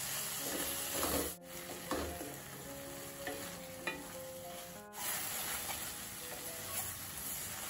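Vegetables and tomato masala sizzling as they fry in a stainless-steel kadai, with a wooden spatula stirring and scraping the pan now and then. This is the pav bhaji masala base being fried down with chopped onion, capsicum and tomato.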